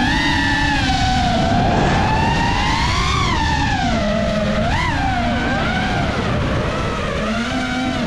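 FPV quadcopter's brushless motors (2405, 2850KV) and three-blade propellers whining, the pitch rising and falling with the throttle. There is a sharp jump in pitch about five seconds in, and it settles lower near the end.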